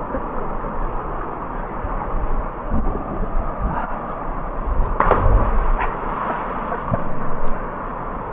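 Steady rush of a waterfall, with a sharp knock about five seconds in.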